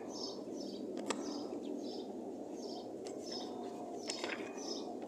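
A bird chirping repeatedly, short high chirps about two to three times a second, over a steady low background hiss.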